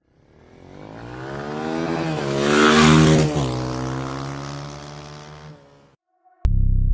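Honda CB350RS single-cylinder motorcycle riding past: its engine note swells as it approaches, is loudest about three seconds in, drops in pitch as it passes and then fades away. A loud electronic tone from the intro music cuts in just before the end.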